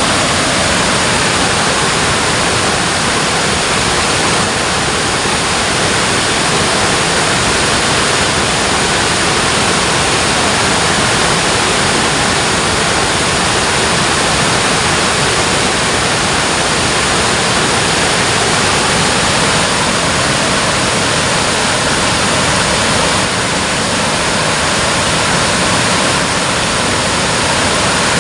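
Water rushing over a dam in a steady, loud, unbroken roar of falling water.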